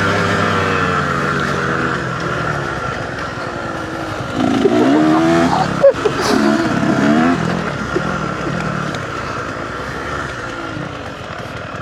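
Dirt bike engine under way, its note climbing and falling as the throttle opens and closes through the gears, loudest about halfway through.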